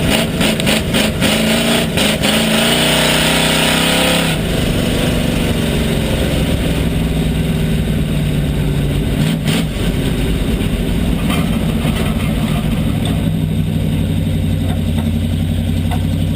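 Pure stock race car's engine heard from inside the car, running under power with a few sharp knocks, then the throttle lifts about four seconds in and the engine drops to a lower, steady run, easing toward idle near the end.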